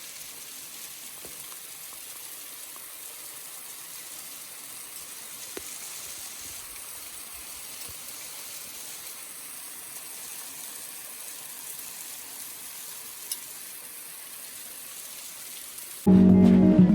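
Steady hiss of rain falling, with a few faint ticks of drops.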